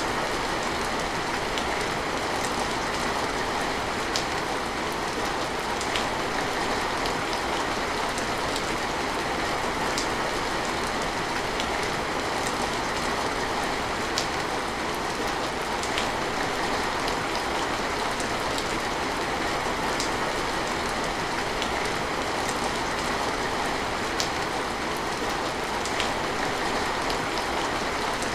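Steady rain falling, an even hiss with sharp single drop hits every couple of seconds.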